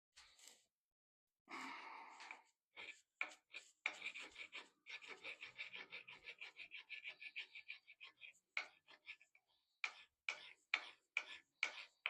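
Hand-finishing strokes rasping on metal: first a fast run of short strokes, then slower, louder strokes about two or three a second.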